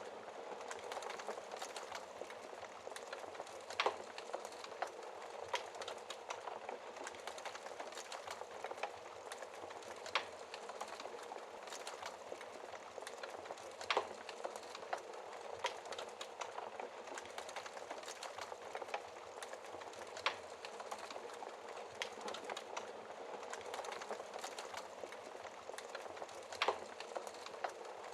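Wood fire burning in a fireplace: a steady hiss of soft crackling, broken every few seconds by a sharp pop from the burning logs.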